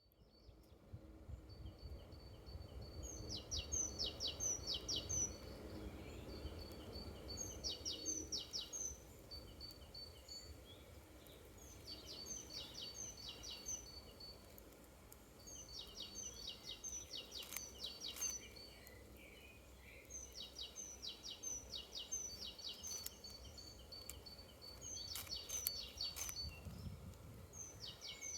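A songbird singing the same short phrase over and over, roughly every four to five seconds: a quick run of high, sharply falling notes. Underneath is a steady low outdoor rumble.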